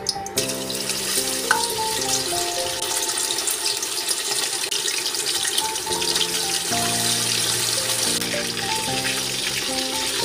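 Food frying in hot oil in a stainless steel wok: a steady, dense sizzle that starts about half a second in, as the pieces go into the oil. Background music plays along.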